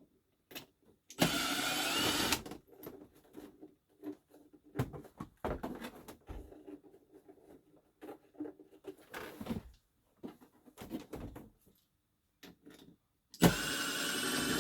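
Handheld cordless power driver running in two short bursts of about a second each, one about a second in and one near the end, backing out screws from a dash trim piece. Light clicks and handling of plastic trim come between the bursts.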